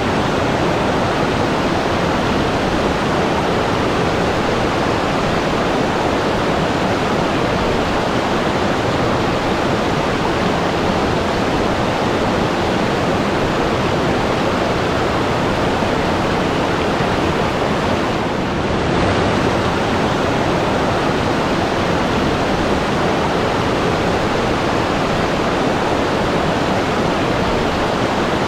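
Continuous rushing water, a steady even rush with no surges or breaks.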